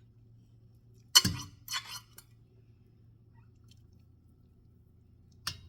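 A kitchen utensil clanking against cookware while cooked chicken drumsticks are lifted out of a pot of broth: one sharp clank about a second in, a rattle just after, and a single clink near the end. A faint low hum runs underneath.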